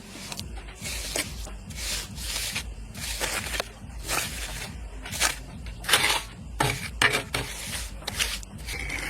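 Repeated rough scraping or rubbing strokes, about one to two a second at an uneven pace.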